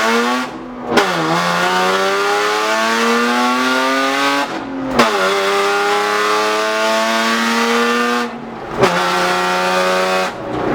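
Straight-piped BMW E36 exhaust, with headers, heard under hard acceleration: the engine note climbs steadily in pitch, drops away briefly three times as the driver changes gear, and comes back each time with a short sharp spike. Very loud.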